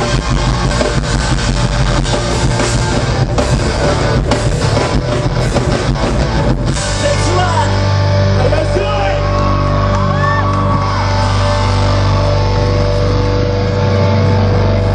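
Live rock band playing loud, with drums and electric guitar. About halfway through, the drumming stops and a held chord rings on, with some singing over it.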